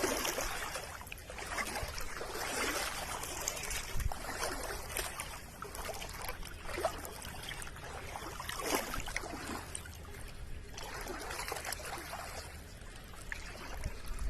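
Water trickling and splashing: a steady hiss with many small, irregular splashes and drips.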